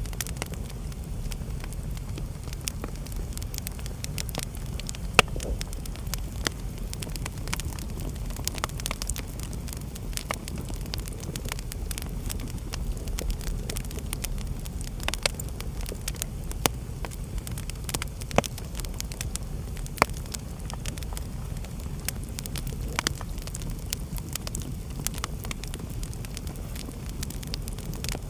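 Wood fire crackling in a fireplace: irregular sharp pops and snaps over a steady low rumble, with a handful of louder pops.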